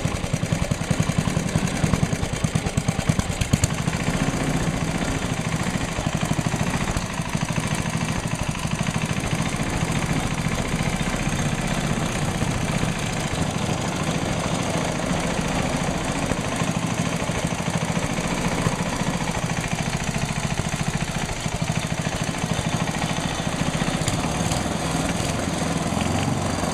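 Rebuilt Tecumseh HH120 single-cylinder engine running steadily on a bench test, with a rapid even firing beat. Its builders hear a knock in it that they cannot yet place; they rule out the rod and piston.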